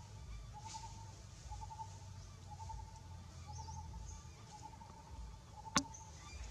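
Quiet forest ambience: a bird repeats a short note on one steady pitch about once a second, with faint high chirps. A single sharp click sounds near the end.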